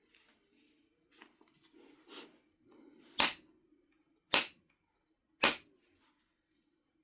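Flintknapping on a Knife River flint biface: a few soft ticks and rubbing, then three sharp clicking strikes of the knapping tool on the flint, about a second apart.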